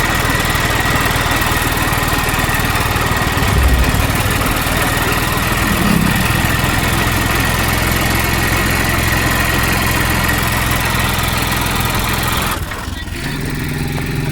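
A vehicle engine running under a heavy, steady rushing noise, with a thin steady whine above it. Near the end the sound changes abruptly: the rushing noise drops away and a steadier low engine hum remains.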